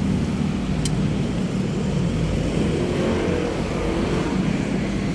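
City street traffic: a steady rumble of car and vehicle engines and tyre noise.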